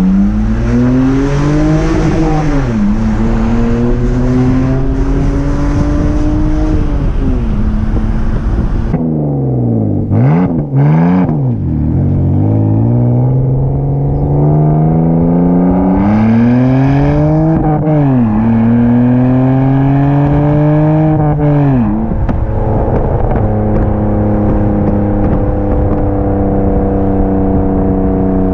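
A BMW E39's 2.5-litre inline-six, with a modified exhaust and a K&N air filter, is revved repeatedly. The pitch climbs and falls in several long sweeps, with a couple of quick blips about ten seconds in, then holds a steady note that slowly sinks near the end.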